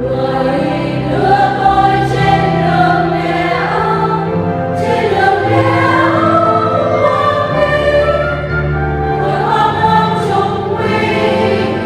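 Church choir singing a Vietnamese Catholic communion hymn over held instrumental accompaniment, the voices coming in right at the start after an instrumental passage.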